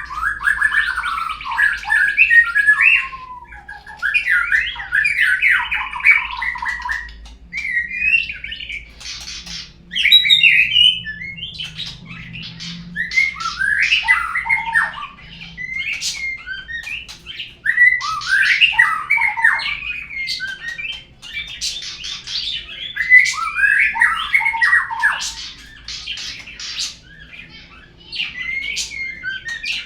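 Murai songbird song: a loud, varied stream of rapid whistles, trills, gliding notes and harsh chattering in phrases of a few seconds with short pauses between them. It is a murai lure song (suara pancingan), played to get a murai to start singing.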